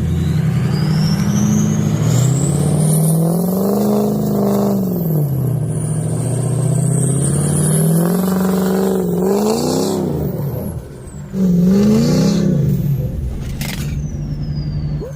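Diesel pickup truck engine revving in repeated surges, its pitch climbing and falling several times as the driver works the throttle to regain traction in deep snow. It drops briefly about eleven seconds in, then revs up again.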